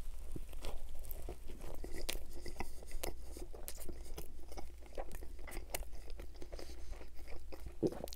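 Close-miked mouth sounds of eating an Arby's beef and cheddar sandwich on a soft onion roll: a bite into the bun as it starts, then steady chewing full of wet smacks and small clicks.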